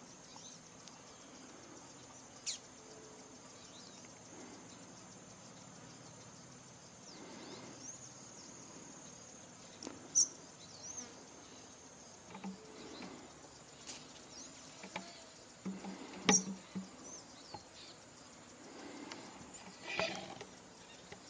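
Outdoor insect buzz, with a thin steady high whine over the first half that stops about twelve seconds in. A few short, sharp, high bird chirps and small curved whistle notes come scattered through, with a busier run of calls near the end.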